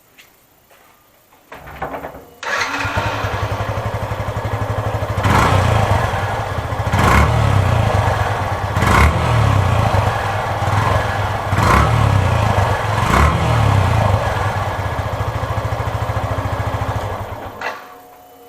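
Yamaha FZS V3.0 motorcycle's single-cylinder engine on its stock exhaust, started about two seconds in, idling, and revved in about five short throttle blips before being switched off near the end.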